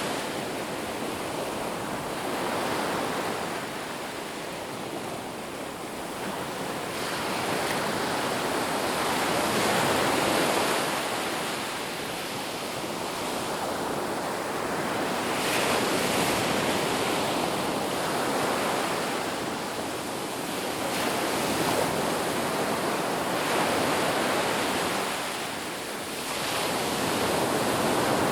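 Ocean waves breaking and washing on a beach, a steady rush of surf that swells and eases every few seconds.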